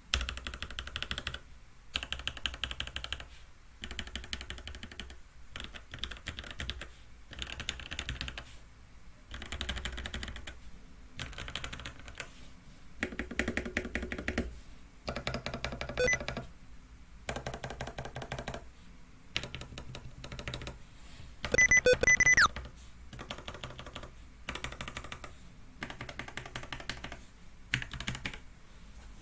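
Keychron C1 mechanical keyboard being typed on in bursts: Gateron G Pro Red linear switches under ABS keycaps in a plastic case, clacking on a bare desk with no desk mat, picked up by a webcam microphone. A louder flurry of keystrokes comes about two-thirds of the way through.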